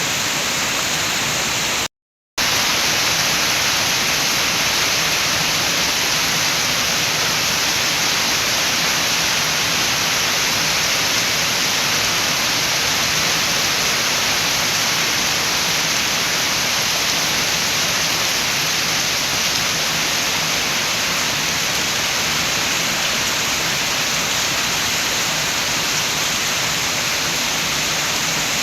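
Steady, dense hiss of heavy rain falling, with no gusts standing out. A couple of seconds in it cuts to silence for about half a second, then resumes unchanged.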